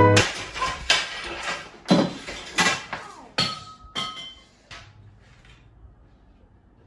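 Hard household objects being handled and set down: about six knocks and clinks over four seconds, a few of them ringing briefly like glass or crockery, then only faint handling.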